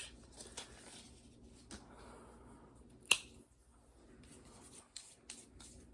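Quiet handling noises with one sharp click about three seconds in.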